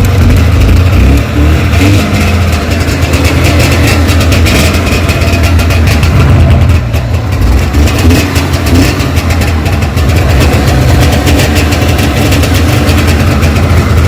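Polaris 340 Indy Lite snowmobile's two-stroke engine running steadily just after catching on the recoil pull, its first start after sitting about two years.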